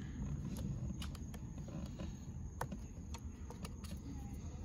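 A few faint, scattered clicks and light taps from hands and a tool working the plastic trim clips of a steering wheel loose, over a low steady rumble.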